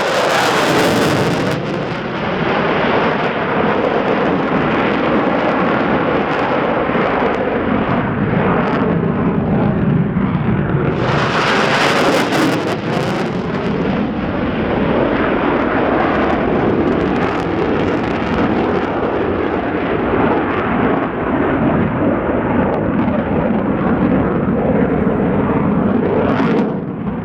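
EA-18G Growler jet, its twin GE F414 turbofan engines making a loud, continuous roar, with a pitch that slides slowly as it passes. The roar swells with a sharper hiss near the start, again about eleven seconds in, and once more near the end.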